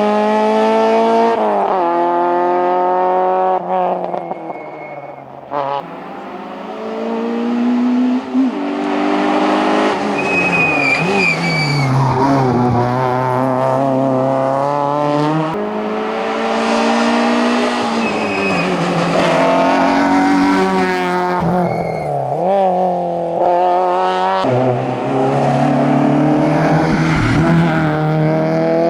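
Citroën Saxo hillclimb cars driven flat out, their engines revving hard with the pitch climbing and dropping again through gear changes. The throttle lifts briefly a few seconds in, and there is a short tyre squeal near the middle. A second Saxo's engine takes over near the end.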